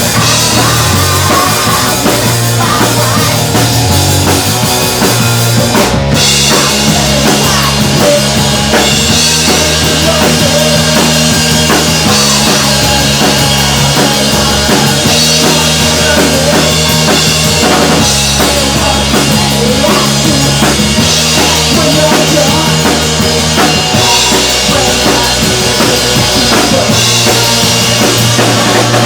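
Rock band music with a full drum kit, bass drum and snare driving a steady beat under sustained bass notes, with a brief break about six seconds in.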